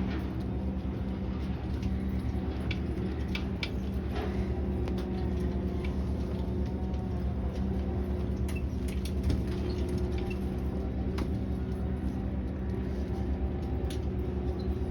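An engine running steadily with a low, even hum, with scattered faint clicks over it.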